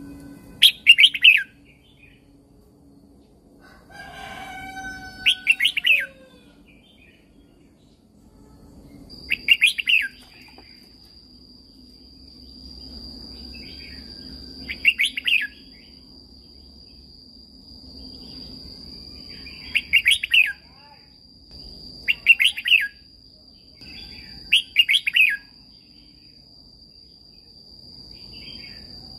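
Red-whiskered bulbul singing short, bright, warbling phrases, about seven of them a few seconds apart. A steady high-pitched tone starts about a third of the way in and runs on beneath the song.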